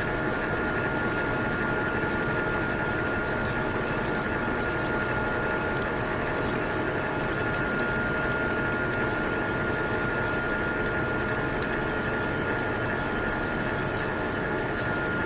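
Metalworking machine running steadily under a cut, with a constant high whine over a steady rushing noise and a few faint ticks.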